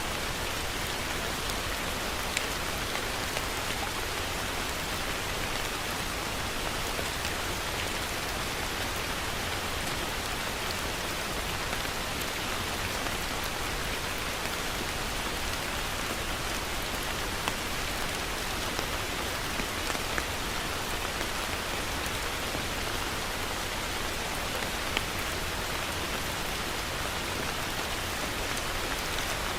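Heavy rain falling steadily, a dense even hiss with a few louder individual drops ticking out now and then.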